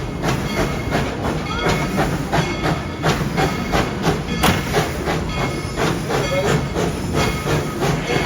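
Tweetsie Railroad's No. 190, a Baldwin-built narrow-gauge steam locomotive, running with its train: a steady run of beats, about two or three a second, over a hiss of steam and the rattle of the cars on the rails.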